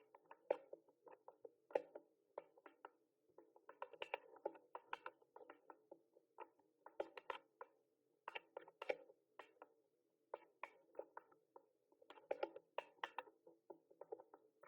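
Typing on a mechanical keyboard: irregular runs of quick key clicks, with brief pauses between bursts, the longest about ten seconds in.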